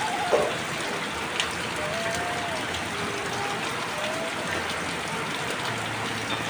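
Steady rain falling, an even dense hiss, with a sudden knock just after the start and a smaller click a little over a second in.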